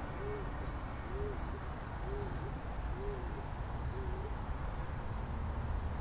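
A bird calling with a series of short, low hooting notes, each rising and falling, about one a second, stopping about four seconds in, over a steady low rumble.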